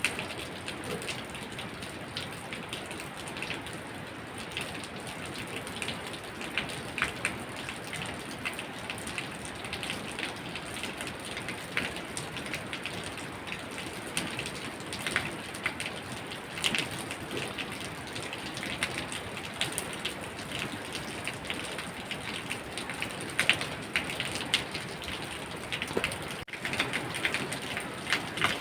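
Steady rain falling, with scattered louder drops and drips ticking irregularly on a hard surface. The sound dips briefly near the end.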